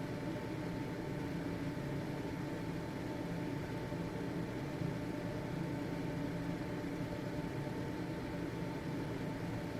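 Household ventilation fan running steadily: an even whir of moving air with a faint constant motor hum and a thin steady whine.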